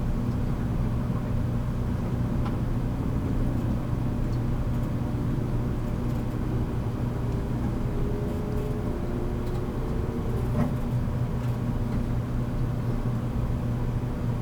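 Interior running noise of a JR 783 series electric multiple unit, recorded in a motor car at speed: a steady rumble and hum. A faint tone rises in pitch from about six to ten seconds in, and a light knock comes near ten and a half seconds.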